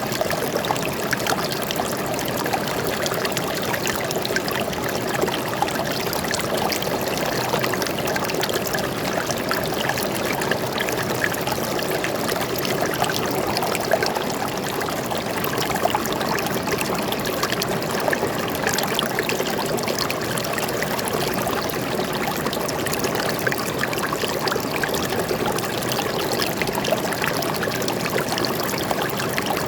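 A forest stream of flowing water, running steadily with a dense, even splashing and trickling.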